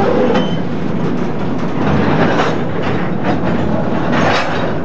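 A slow freight train of empty covered cement hoppers and a tank car rolling past, a steady rumble of steel wheels on rail with several sharp clanks as the wheels cross rail joints.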